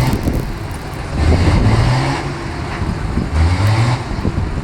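A motor vehicle engine running close by. Its low drone swells twice, about a second in and again past three seconds, as it is revved.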